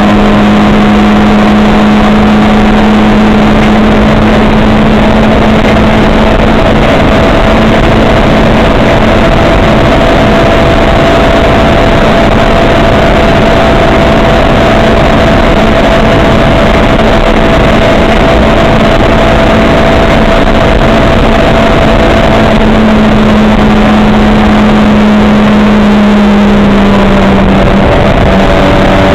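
Race car engine held at nearly constant revs for a long stretch, over a dense wash of noise, with a slight shift in pitch near the end. The recording is very loud and saturated.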